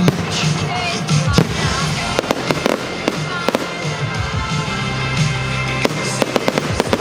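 Fireworks going off, a string of sharp bangs and crackles in clusters, over loud pop music with a steady beat.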